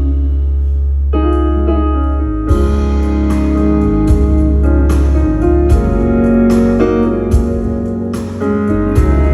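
Live band playing an instrumental passage, piano or electric keyboard to the fore over a steady bass, with sharp percussion hits about once a second.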